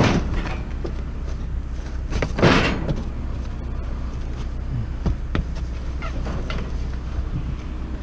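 Bags of curbside scrap being tossed into a pickup truck's bed: a few knocks and one louder rustling thump about two and a half seconds in, over a steady low rumble.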